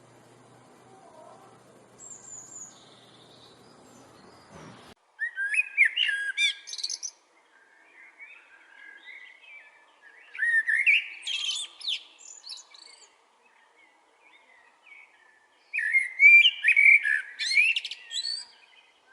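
A songbird singing three loud, rapid warbling phrases about five seconds apart, with quieter twittering between them. For the first five seconds only a faint background hum with a few soft chirps is heard, then the sound changes abruptly as the louder song begins.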